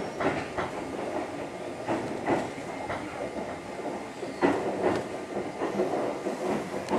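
Inside a Keio 6000 series electric train running into a station: steady running noise with irregular clicks and knocks from the wheels over rail joints and pointwork.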